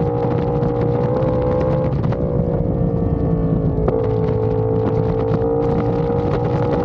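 Yamaha R1's inline-four engine running at a steady, fairly high pitch while riding, with wind noise on the microphone. The engine note breaks briefly about two seconds and four seconds in.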